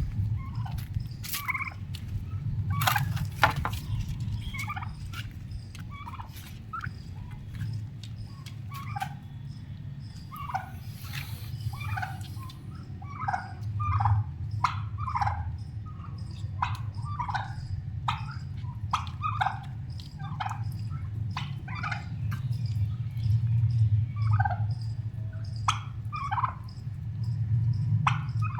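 Young domestic turkeys, about five months old, calling: many short calls following one another in quick succession, over a steady low rumble.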